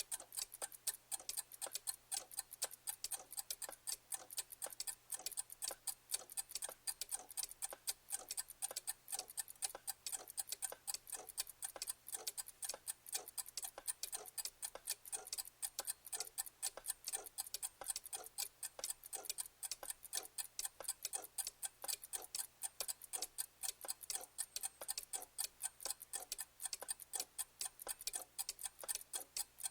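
Mechanical clock ticking continuously, several sharp ticks a second.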